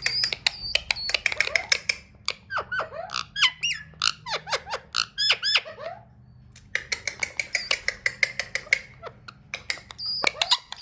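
Alexandrine parakeet chattering: a quick run of clicks and short squeaky chirps, many sliding down in pitch, with a brief pause a little past the middle before the chatter resumes.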